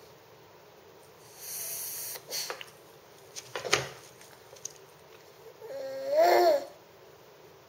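A baby making noises: a breathy huff early on, then a short pitched coo that rises and falls, about six seconds in. A small click falls between them.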